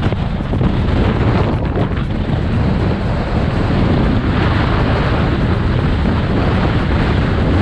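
Heavy wind buffeting the microphone, mixed with the steady wash of ocean surf.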